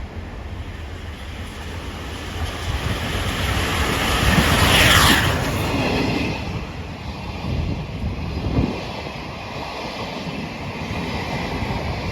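C61 20 steam locomotive and its train passing at speed. A rushing sound builds to a peak about five seconds in, then falls away in pitch to a steady rolling rumble of the coaches. Wind buffets the microphone.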